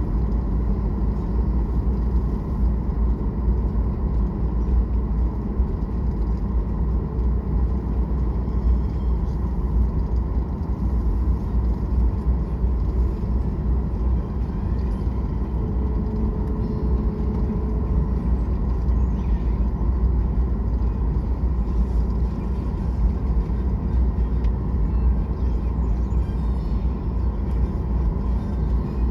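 Jet airliner engines running at high, steady power during takeoff, heard inside the cabin as a loud, even, deep rumble.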